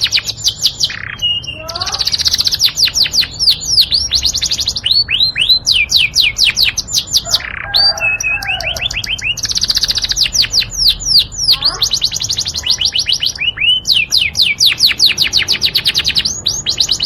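A Yorkshire canary singing: fast, high-pitched trills of rapidly repeated notes, each run lasting a second or two and changing to a new phrase after a brief break.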